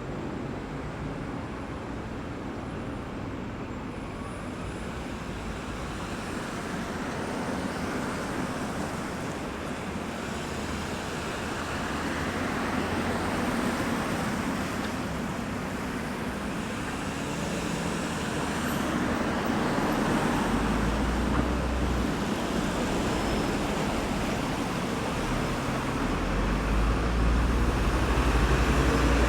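Road traffic at a roundabout: a continuous wash of passing vehicles' tyre and engine noise that swells and eases as they go by. A heavy vehicle's deep engine rumble builds in the second half and is loudest near the end.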